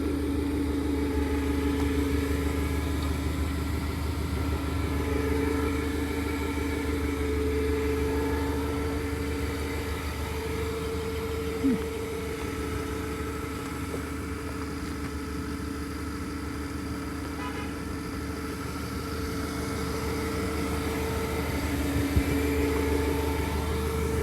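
2024 Mustang's 5.0-litre Coyote V8 idling steadily, with a couple of brief knocks about halfway through and near the end.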